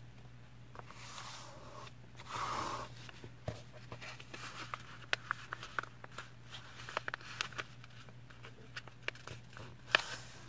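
A sheet of A4 paper being folded by hand: two soft sliding swishes in the first few seconds, then many small crinkly crackles and ticks as the fold is pressed down and creased.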